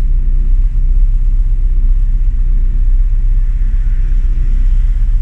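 Riley Elf's BMC A-series four-cylinder engine idling steadily, running again after its contact-breaker points were polished flat.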